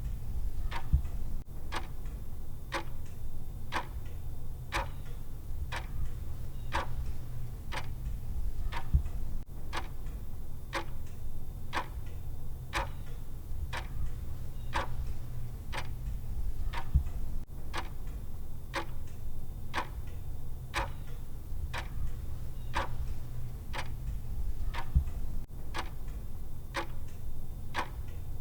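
Clock tick sound of a countdown timer: an even tick-tock, a stronger tick about once a second with a softer one between, over a steady low hum.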